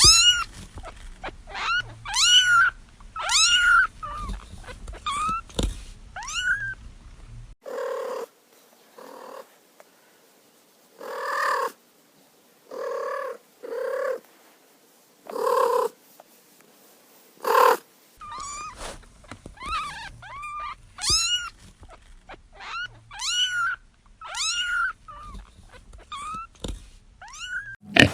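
Kittens mewing over and over in short, high, rising-and-falling calls. In the middle stretch these give way to lower, rougher calls about once a second.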